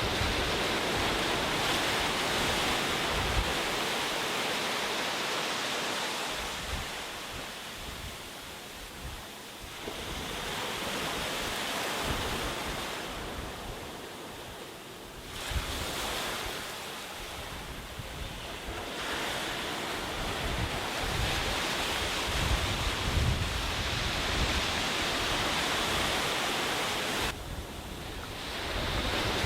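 Sea surf washing onto a beach. The wash swells and ebbs every few seconds, with several loud surges and quieter lulls between them. Wind adds an unsteady low rumble on the microphone.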